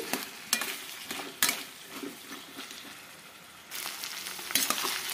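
Chopped potatoes and flat beans sizzling in hot oil in a stainless steel kadai, stirred with a steel spatula that clicks against the pan twice in the first second and a half. The sizzle dies down in the middle and picks up again near the end.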